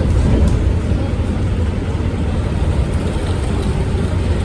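Scania K230UB city bus's five-cylinder diesel engine running, a steady low rumble.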